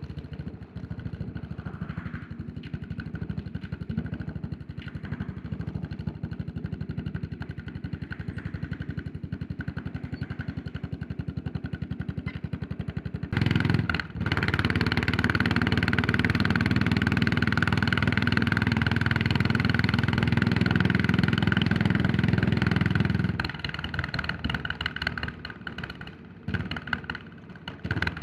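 Yamaha SR400's single-cylinder four-stroke engine pulsing at light throttle, then opened up sharply about halfway through. After a brief break a second later, it pulls loud and steady for about nine seconds. Then the throttle closes and it runs quieter and uneven.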